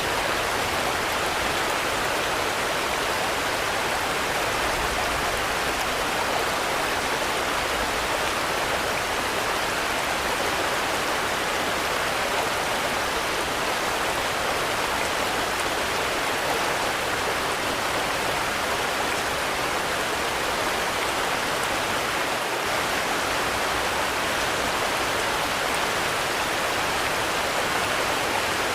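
Steady rain, an even hiss with no pauses and no single sound standing out.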